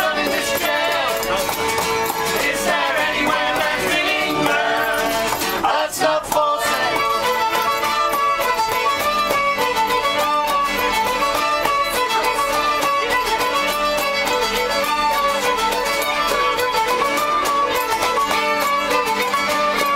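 Live folk music led by a fiddle playing a repeating dance-tune phrase, with a brief knock about six seconds in.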